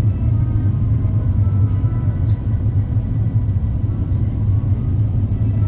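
Steady low rumble of airflow and engines inside the cabin of an Airbus A350-900 in flight.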